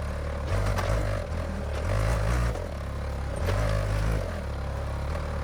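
Ford 555 backhoe's engine running under load, its note swelling and easing three times, as when the throttle rises with each working stroke.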